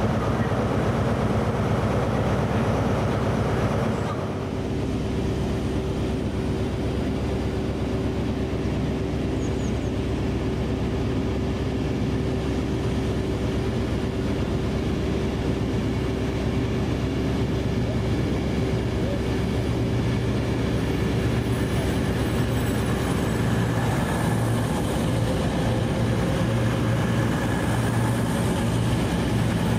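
A train running steadily, with a steady hum over it for most of the time and a slight dip in level about four seconds in.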